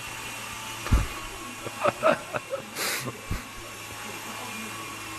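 Small indoor RC helicopter's electric motor and rotors whirring steadily, with a low thump about a second in.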